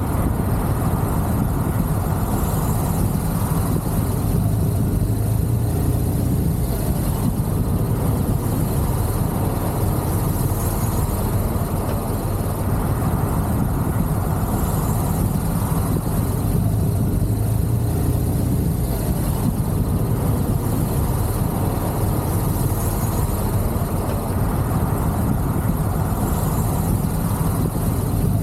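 Motorcycle engine running steadily at low speed while filtering through traffic, with road and wind noise.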